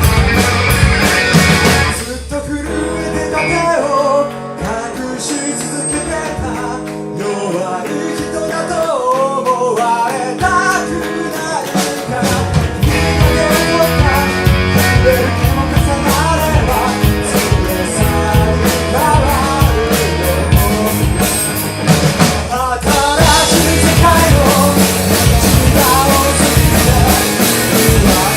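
Live rock band playing an original song with singing, guitar and drums. For about ten seconds near the start the bass drops away and the voice stands out over a lighter accompaniment, then the full band comes back in.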